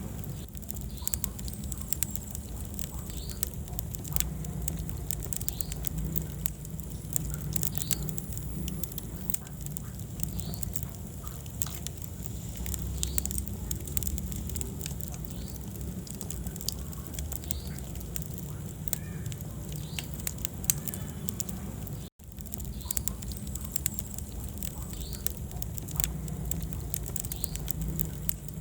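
Wood fire burning in a fireplace: continual crackling and sharp pops over a low, steady rumble of flame. The sound cuts out for an instant about two-thirds of the way through.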